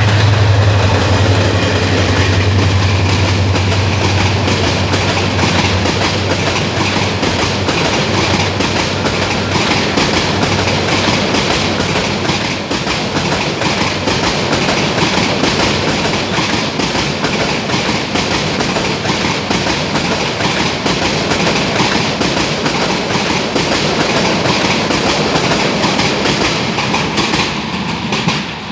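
Diesel-hauled Bangladesh Railway passenger train passing close by. A steady low engine hum is heard over the first few seconds, then the continuous rumble and clickety-clack of coach wheels over the rails, easing off near the end as the last coach goes by.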